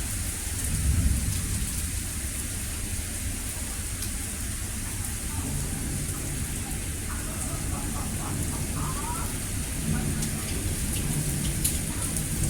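Rain from a severe thunderstorm falling steadily, with a low rumble of thunder swelling about a second in.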